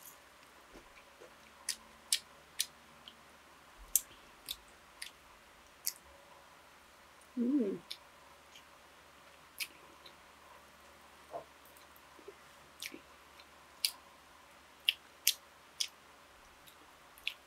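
Close-miked eating sounds of a person chewing a meal: irregular sharp mouth clicks and smacks, with a short hum of the voice about seven and a half seconds in.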